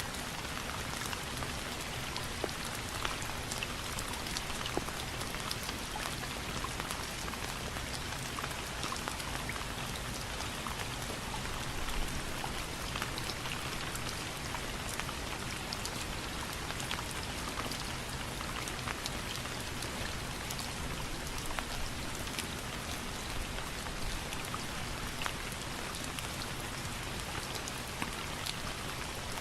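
Steady rain falling and pattering on a surface, with many separate drops ticking sharply through it and no thunder.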